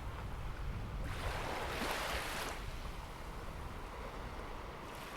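Sea waves washing onto the beach: one wave surges in about a second in and fades out, over a steady low rumble of wind on the microphone.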